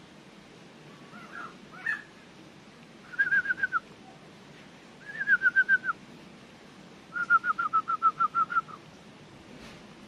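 A bird calling in three quick runs of clear, slightly falling notes, the last and longest with about a dozen notes; a few softer notes come before them.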